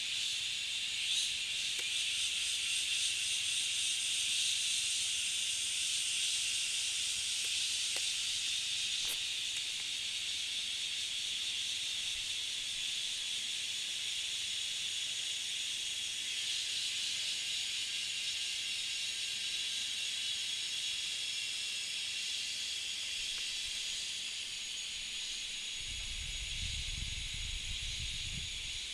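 A steady high-pitched hiss throughout, with a low rumble near the end.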